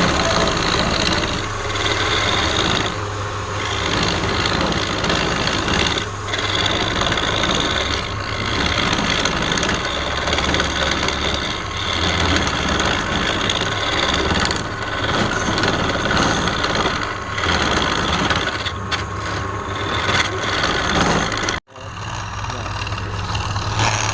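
Wood lathe running, its motor humming steadily while a turning tool cuts into the spinning wood with a rough scraping that swells and eases as the cut moves. The sound drops out for an instant near the end.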